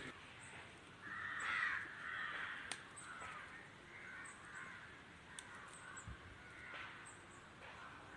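Crows cawing, a louder call about a second and a half in, then fainter calls repeating.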